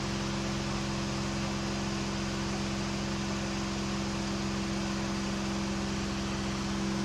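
KR2 light airplane's piston engine and propeller droning steadily in a climb, throttled back to about 2600 rpm, under a constant rush of air noise.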